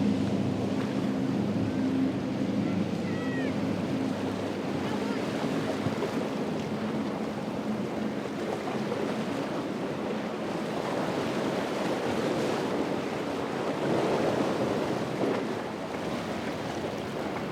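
Waves surging and breaking in a rough ocean inlet, with wind buffeting the microphone. A boat engine's steady drone is heard over the water in the first few seconds and then fades out.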